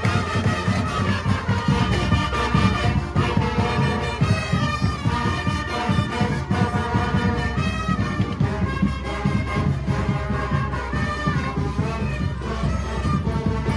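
A Cape Minstrel street band playing: brass horns over a steady drum beat.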